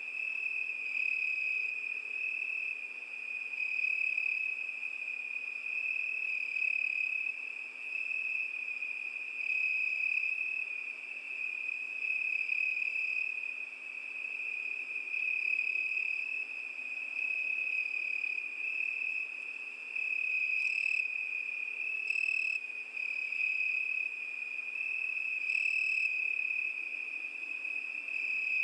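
Cricket singing, a continuous high-pitched trill that swells and fades every second or two, with a few brief sharper notes in the second half.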